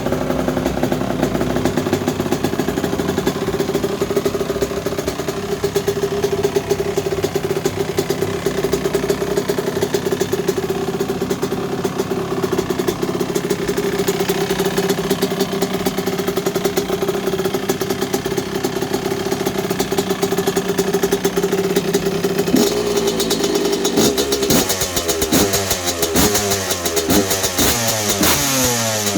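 1986 Honda CR125's single-cylinder two-stroke engine running at a steady speed, then, from about 22 seconds in, revved repeatedly, its pitch rising and falling with each blip of the throttle.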